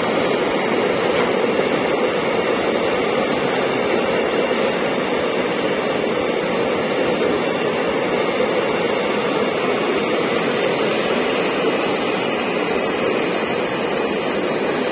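Loaded container wagons of a freight train running through at speed: a steady, even noise of wheels on rail with no distinct knocks.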